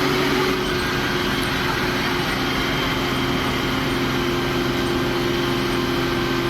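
Heavy truck engine running steadily under power, a constant-pitched engine drone.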